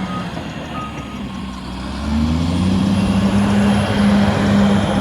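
Heavy diesel earthmoving machine running, its reversing alarm beeping twice near the start, then the engine revving up about two seconds in and staying loud.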